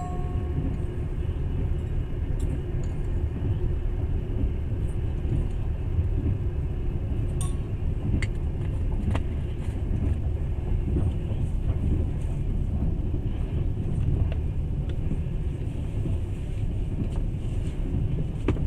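Passenger train running, heard from inside the carriage: a steady low rumble, with a few faint clicks and knocks scattered through it.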